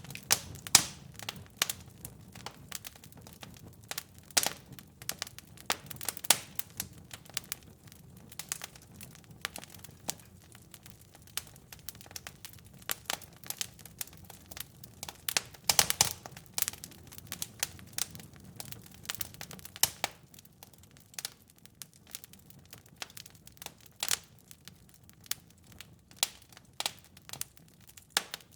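Wood fire crackling in a fireplace: irregular sharp pops and snaps, several each second, some louder, over a soft low rumble of the flames.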